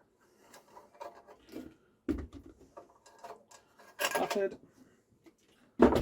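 Workbench handling noises as the air filter cover is worked off a push mower's engine with a flathead screwdriver: scattered clicks and scrapes, with a heavier knock about two seconds in and another near the end.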